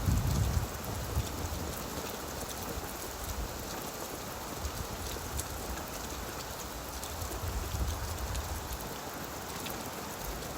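Steady rain falling on leaves, a dense patter of many small drops. A low rumble at the very start dies away within the first half second.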